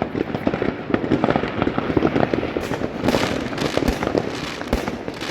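Many fireworks and firecrackers going off at once: a dense, continuous barrage of bangs and pops, with a louder patch of crackling about three seconds in.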